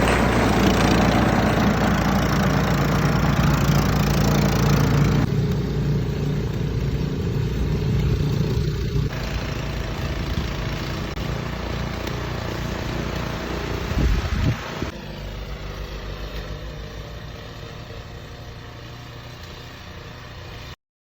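An engine running steadily, growing quieter in steps through the second half and cutting off abruptly near the end.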